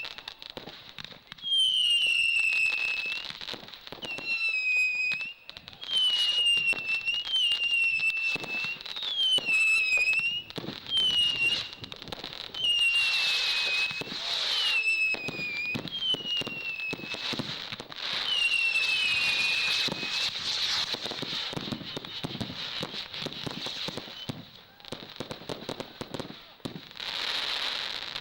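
A fireworks barrage of whistling shots: about ten shrill whistles, each about a second long and dropping slightly in pitch, over a steady run of cracks and pops. Crackling, fizzing stretches come in several times, the longest near the middle.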